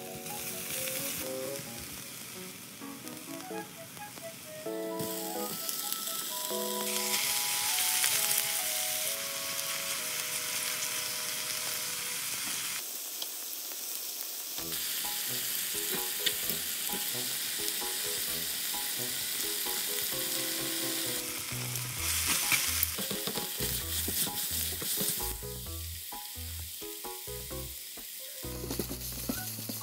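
Sliced green onion and then thin-sliced pork belly sizzling in hot oil in a nonstick wok as they are stir-fried and turned with tongs. The sizzle swells and eases, over light background music.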